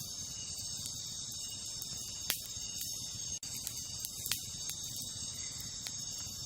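Steady high chirring of night insects such as crickets, with a few sharp pops and crackles from a wood campfire, the loudest about two and four seconds in.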